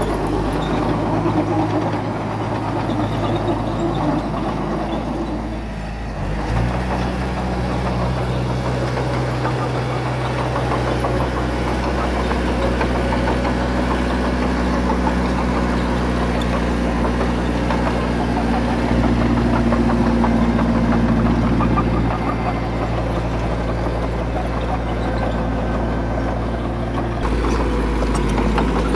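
Diesel engine of heavy earthmoving equipment running steadily. Its note shifts about six seconds in and changes again near the end.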